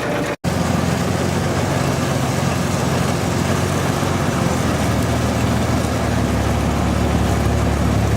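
Fishing boat's engine running steadily, a low hum with constant pitch, heard on board. The sound drops out briefly about half a second in.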